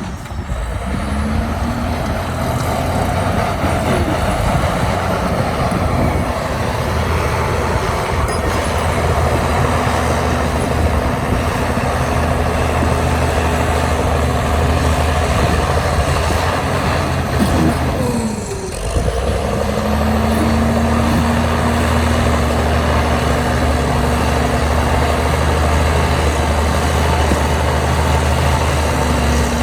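Heavy earthmoving machine's diesel engine running steadily, with a brief drop in level a little over halfway through.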